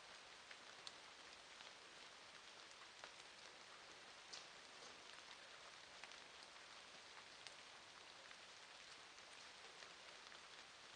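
Faint, steady rain falling, with scattered individual drops ticking sharply.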